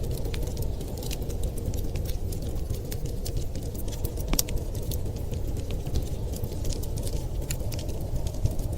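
Wood fire crackling with many small, sharp pops, one louder pop a little before halfway, over a steady low rush of blizzard wind.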